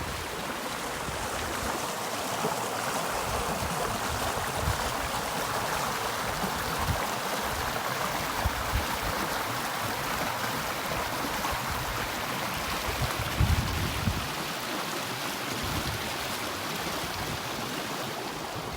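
Clear river water flowing, a steady rushing of water. A few low bumps and rumbles break in, the loudest about two-thirds of the way through.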